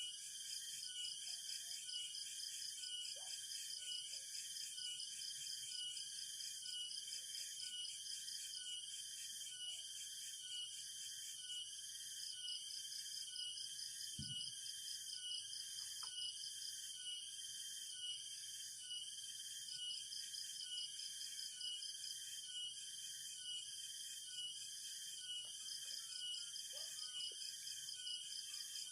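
Rain-forest insect chorus: several high-pitched steady trills layered together, one of them pulsing in a regular rhythm. A single soft low thump about halfway through.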